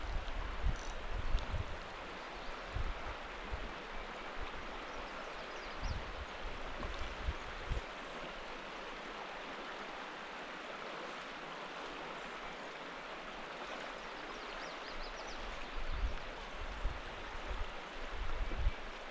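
Steady rush of flowing river water, with irregular low thumps on the microphone, mostly in the first few seconds and near the end.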